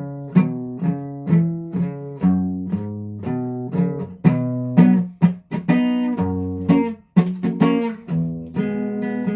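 Guitar played on its own, chords or notes picked and strummed about twice a second, each ringing out and fading before the next, with a brief break about seven seconds in.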